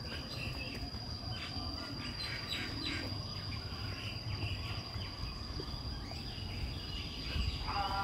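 Birds chirping and calling in short, scattered notes over a constant high-pitched whine and a low background rumble; a voice starts near the end.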